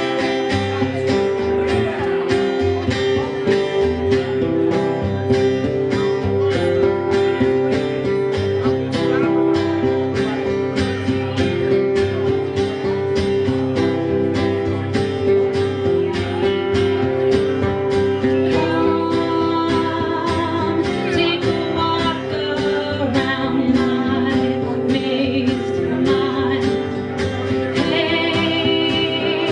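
A live song played on strummed guitar, with a steady, even strumming rhythm. A voice sings over it in the second half.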